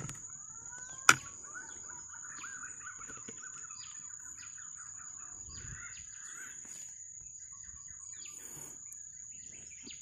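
A bird calling in a run of quick chirping notes, some gliding upward, over a steady high insect whine. A single sharp click about a second in is the loudest sound.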